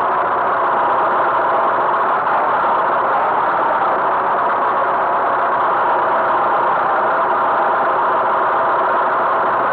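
Tractor engine running steadily, with no change in pitch or level.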